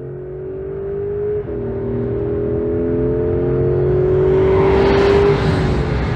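Porsche 911 Carrera 4 GTS Hybrid's rear-mounted flat-six engine and exhaust under acceleration: the revs climb, drop sharply with an upshift about one and a half seconds in, then climb again, getting louder, until the revs fall away near the end.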